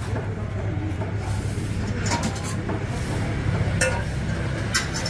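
A steady low hum with a few light clinks and taps.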